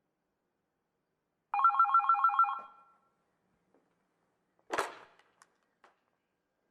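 A ringing trill of about eight fast pulses a second on several tones, lasting about a second before it fades, followed past the middle by one short burst of noise and a few faint clicks.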